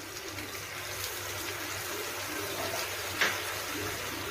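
Potato and vegetable pieces sizzling in oil in a kadai: a steady hiss, with one short knock about three seconds in.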